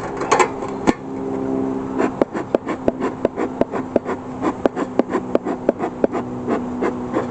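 Honeybees buzzing around an open hive, a steady low hum. From about two seconds in it is joined by a run of sharp clicks, about three or four a second.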